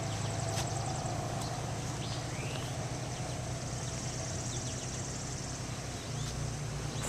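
Outdoor ambience: a steady low rumble, with a few short rising bird chirps and a high, rapid insect trill.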